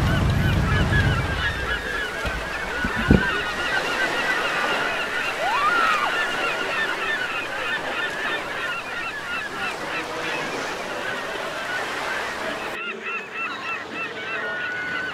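A large flock of birds calling, many short calls overlapping densely, with surf washing that fades out in the first couple of seconds. A single sharp thump stands out about three seconds in, and the background hiss drops away abruptly about two seconds before the end while the calls go on.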